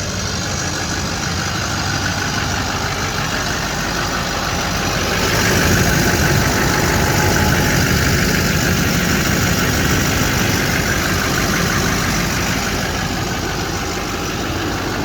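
Engine idling steadily under a rushing noise that swells about five seconds in and eases near the end.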